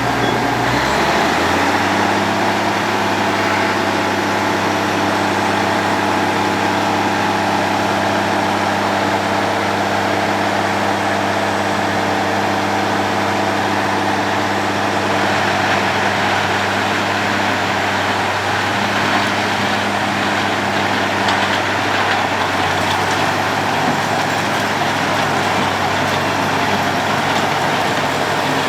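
Road planer's diesel engine running steadily under load, its note stepping up about a second in, with a dense grinding hiss over it.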